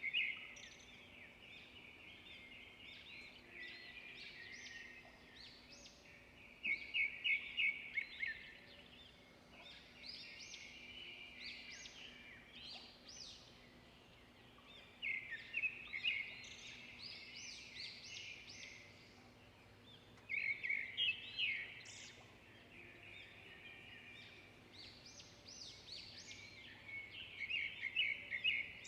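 Songbirds singing in a chorus of overlapping chirps and calls, with a louder, rapid trilled phrase that returns roughly every six to seven seconds.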